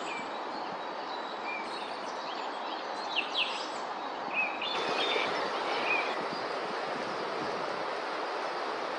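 Steady rushing of river water, a little louder from about five seconds in, with a few short, high bird calls over it during the first six seconds.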